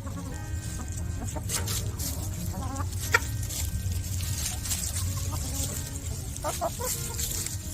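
A flock of domestic hens clucking as they feed, with a few short, sharp calls, over a steady low rumble.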